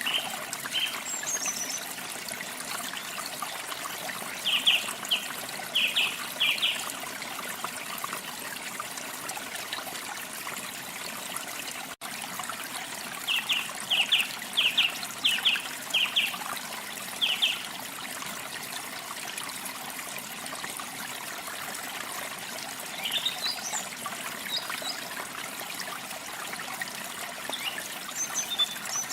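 Water trickling steadily, like a small stream, with small birds chirping over it. The chirps come in quick runs of short notes twice, then as scattered higher calls near the end.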